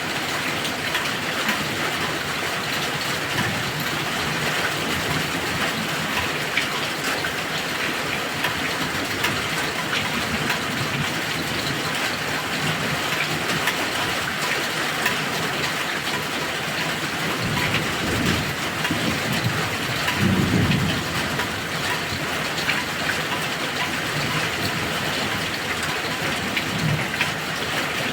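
Heavy rain falling steadily, pattering on a surface, with low rumbles of thunder about two-thirds of the way through.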